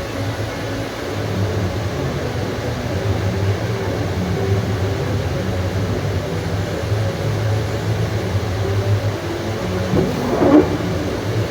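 Steady low rumble of a moving vehicle, with a short rising squeal near the end.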